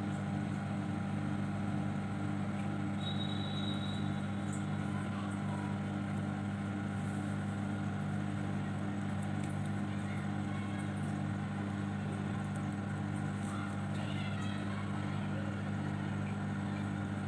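Microwave oven running while a cake bakes inside: a steady electrical hum with a low buzzing drone that holds an even level throughout.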